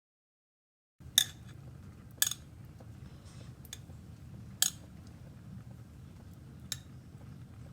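Four sharp clinks of kitchen utensils against dishes, spaced one to two seconds apart, over a steady low hum.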